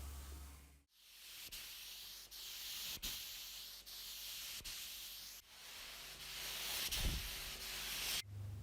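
Sanding a restoration part by hand: slow back-and-forth strokes that swell and fade about every second and a half. The sound comes in short pieces joined by sudden cuts.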